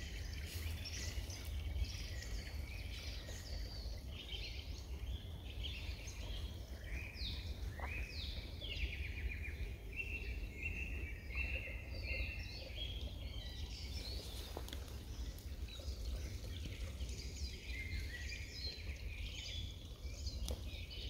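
Several songbirds singing and calling: many short high chirps and trills overlapping throughout, with a few quick falling notes about eight seconds in, over a steady low rumble.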